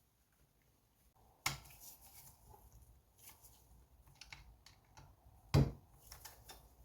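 Hand tools working bolts on a small engine casing: a sharp click about one and a half seconds in, scattered light clicks and taps, and a louder knock a little after five and a half seconds.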